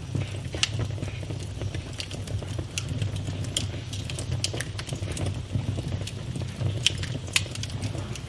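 Campfire burning, with wood crackling in irregular sharp pops and snaps over a steady low rumble of the flames.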